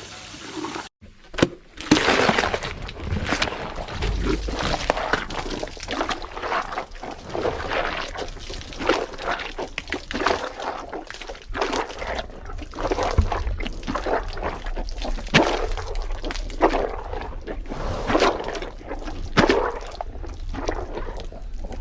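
A hippo crushing and chewing a whole watermelon: irregular wet crunches and cracking as the rind breaks, with juice and water sloshing.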